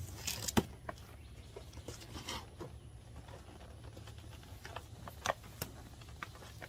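A cardboard box being opened and handled: scattered clicks and brief rustles and scrapes of cardboard flaps and packing, the sharpest click about half a second in.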